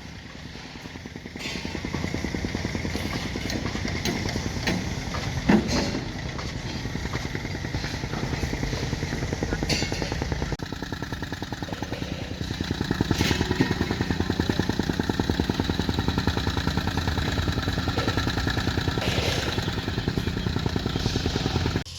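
Engine of a heavy earthmoving machine running steadily, with a sharp clank about five and a half seconds in. The engine grows louder about halfway through.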